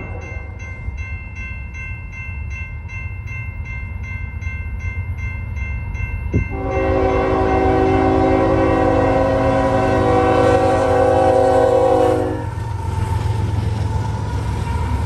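Train passing with a low rumble throughout. A bell rings rapidly, about two and a half strokes a second, for the first six seconds or so, then the locomotive's multi-chime air horn sounds one long blast of about six seconds.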